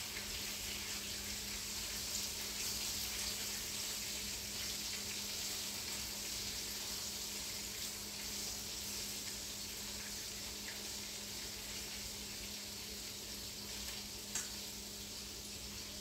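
Chicken sizzling steadily as it browns in a frying pan, with a low steady hum underneath.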